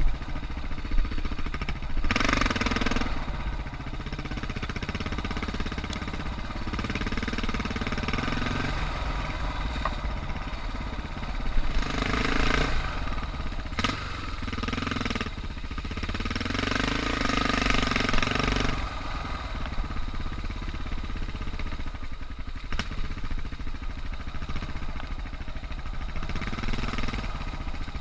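Suzuki DR650's single-cylinder four-stroke engine running at low revs on a dirt trail, the throttle opening in short surges a few times, the longest about two-thirds of the way through.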